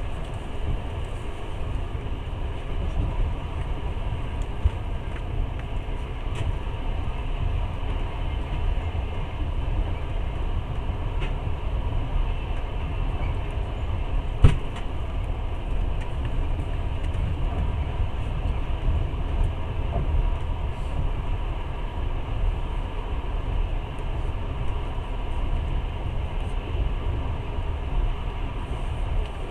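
Steady low rumble of a moving passenger train heard from inside the carriage, with a single sharp knock about halfway through.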